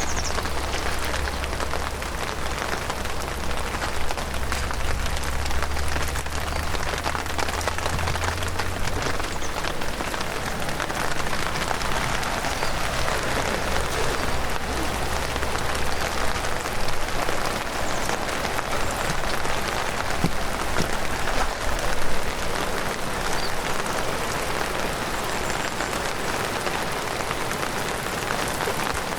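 Heavy rain falling: a steady, dense hiss of rain on the ground and vegetation with scattered individual drop ticks. A low steady hum sits beneath it for the first half.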